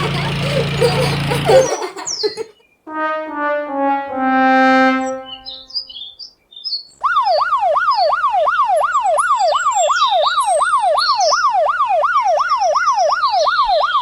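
A comedic descending 'wah-wah-wah-wahh' horn sound effect, like a sad trombone, stepping down in pitch and ending on a held low note. A few seconds later comes a loud, fast warbling siren that sweeps up and down about two to three times a second and cuts off near the end.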